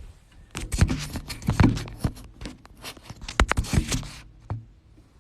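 Irregular clicks, taps and scrapes of hand work at a gas furnace's low-voltage wiring, as a jumper wire is fitted onto the thermostat wire.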